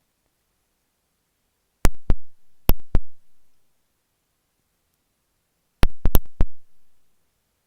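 Dressmaker's marking pins flicked against an earphone microphone: sharp clicks, each with a short ringing decay, in two quick groups of about four, near two seconds in and again around six seconds.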